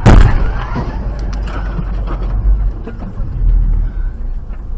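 Car crash: a sudden very loud impact at the start, followed by scattered smaller knocks and clatter over a heavy low rumble.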